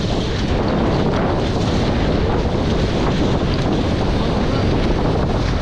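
Steady wind buffeting the microphone over water rushing along the hulls of a Nacra 20 beach catamaran under sail.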